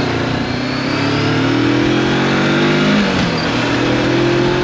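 Honda CB400X motorcycle's parallel-twin engine accelerating under way, its pitch climbing, dipping once about three seconds in, then climbing again, over a steady rush of wind.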